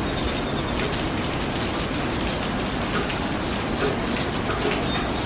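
Steady rain falling, with separate drop hits now and then.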